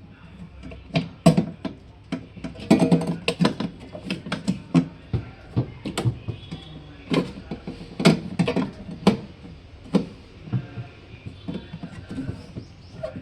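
Irregular clicks and knocks of plastic refrigerator parts being handled and fitted by hand, with quieter rustling between the knocks.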